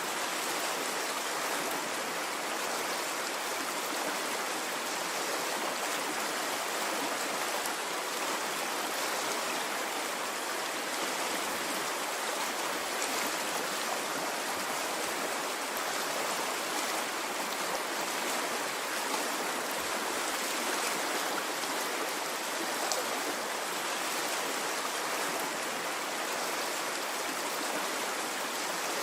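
Water in a stream flowing steadily, a continuous even rush with no surges, with a few faint brief splashes.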